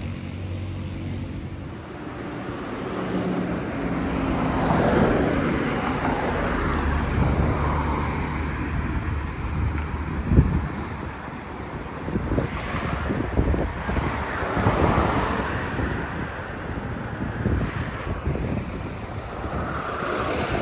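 Heavy diesel truck engine running, with wind buffeting the microphone and one sharp knock about ten seconds in.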